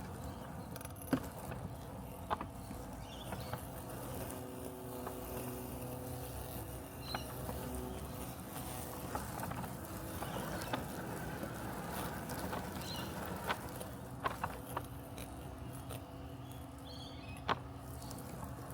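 Robotic lawn mower running with a steady mechanical hum, its motor tones holding level, broken by a handful of short sharp clicks.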